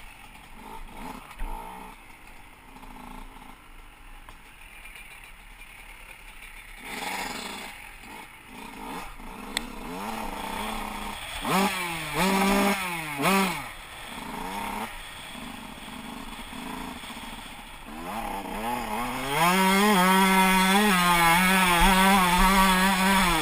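Motocross bike engine running low and unsteady at first, then blipped a few times with quick rises and falls in pitch about halfway through. In the last few seconds it accelerates and runs loud at high revs, its pitch wavering up and down as the rider works the throttle.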